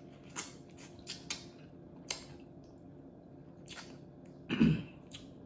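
Close-up wet eating sounds of seafood boil being chewed: a scatter of short, sharp lip smacks and squishy chewing clicks, with one louder, fuller sound about four and a half seconds in.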